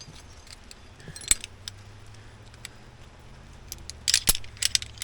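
Metal climbing gear clinking: carabiners and anchor hardware knocking together as a climber rigs into the anchor. There are a couple of sharp clinks about a second in and a quick cluster of them near the end.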